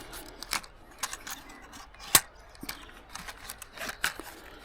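Scattered sharp clicks and light rattling from gear being handled close to the microphone, with one loud click about two seconds in.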